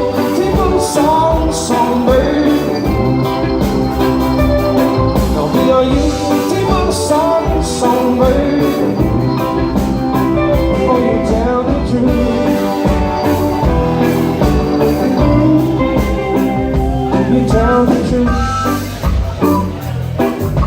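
Live band playing an instrumental passage of a rock song, with a steady drum beat under guitar and keyboard.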